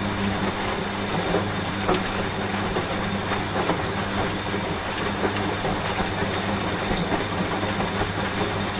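Washing machine running with a steady low hum, mixed with rain pattering as an even hiss of small drop ticks.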